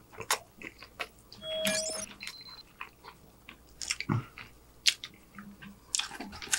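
Crispy fried chicken being chewed close to the microphone: scattered crunches and crackles of the breaded skin, with a bigger bite a little after four seconds.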